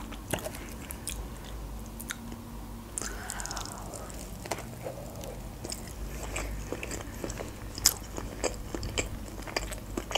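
Close-up chewing of a sushi roll: soft, wet mouth sounds with many small clicks and smacks, one sharper smack about eight seconds in.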